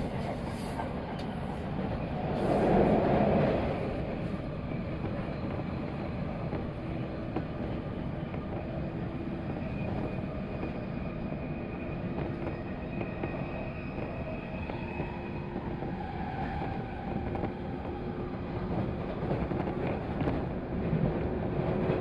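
JR 185 series electric train running, a steady rail rumble with faint steady tones. A louder swell of noise comes about three seconds in.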